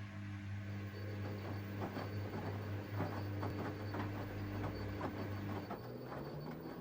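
Washing machine in its wash phase: the motor hums steadily while laundry and water tumble and slosh in the drum with irregular knocks and splashes. Near the end the motor's pitch begins to rise as the drum speeds up.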